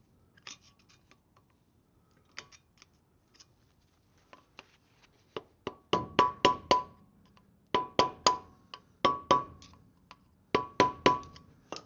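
Hammer blows on metal, each strike ringing: a few light taps, then from about six seconds in four quick bursts of three to five hard strikes, knocking loose a stuck part of the wheel hub assembly.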